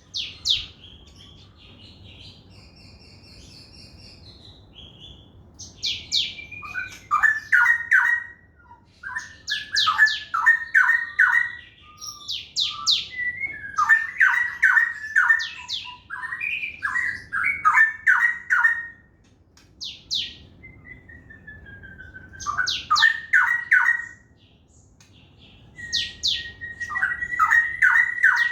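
Crested jay (sogon) calling in repeated bouts of its fast 'trotol' chatter. Each bout opens with a high falling whistle and runs into a quick series of harsh notes, about five or six a second, for two to three seconds. Six or so bouts come after a quiet first five seconds.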